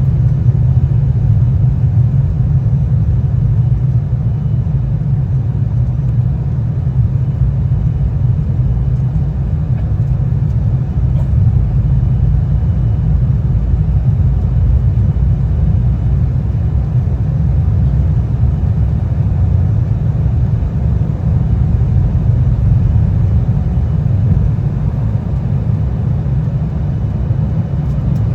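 Steady low rumble of an Embraer 175's twin CF34 turbofan engines and rushing air, heard inside the cabin as the jet climbs after takeoff.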